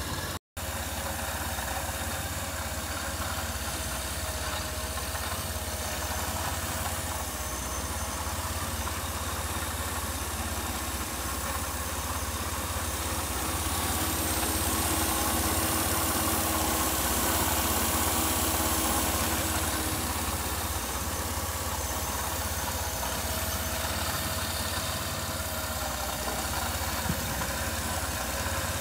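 1998 Camaro (F-body) donor engine idling steadily after its first start in years of sitting, running cleanly on fresh oil and fuel. It gets slightly louder for a few seconds midway.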